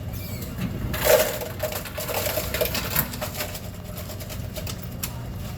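Crinkling and rustling of a paper food wrapper: a dense run of quick crackles starting about a second in and lasting a couple of seconds, then a few scattered clicks.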